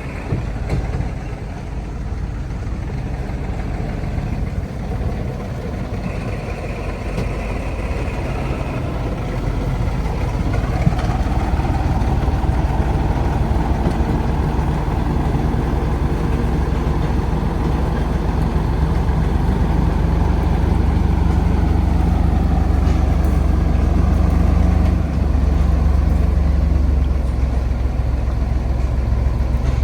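An old truck's engine running steadily, getting louder and deeper about ten seconds in, with a brief drop a few seconds before the end.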